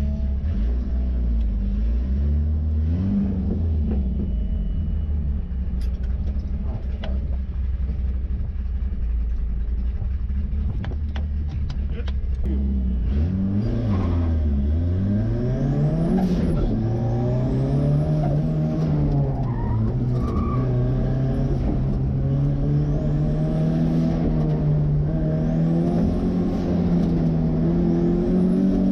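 Ford 2.3-litre turbo four-cylinder engine in a 1963 Volvo Amazon, running at low, steady revs. About halfway in, the revs dip and rise, then climb gradually and hold higher.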